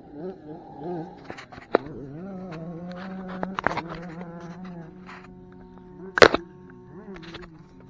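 Distant two-stroke dirt bike engine buzzing, its pitch rising and falling as it revs. A few sharp clicks cut through it, the loudest about six seconds in.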